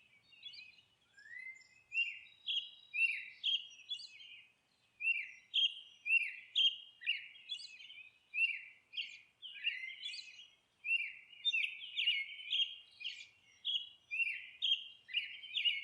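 Birds chirping: a string of short, high chirps, each sweeping downward, coming about two a second with a few brief pauses.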